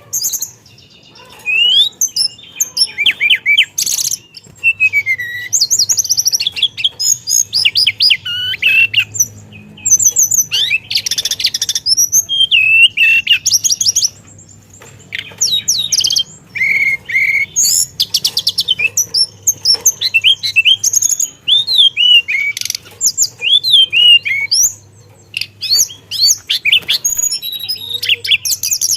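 Teledekan songbird singing vigorously: fast, varied phrases of whistles, sweeping glides and rapid trills, coming in long runs with a few short breaks.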